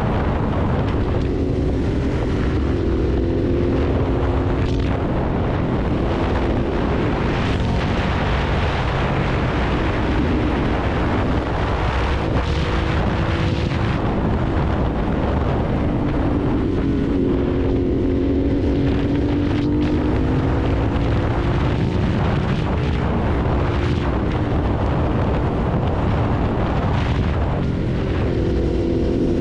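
Ducati Hypermotard's L-twin engine running under way, its note rising and falling with the throttle, over rushing wind noise.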